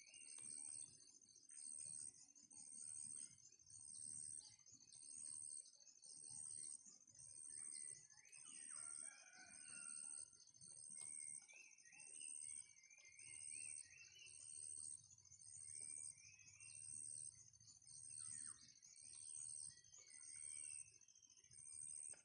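Faint, high-pitched chirping that pulses about once a second over a steady high buzz, typical of insects. Faint, short gliding bird calls come and go in the middle.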